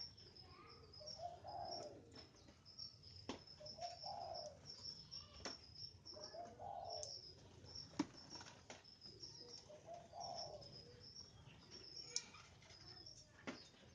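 Faint bird sounds: a dove cooing about every two to three seconds, over a steady run of thin, high chirps from small birds, with a few sharp clicks.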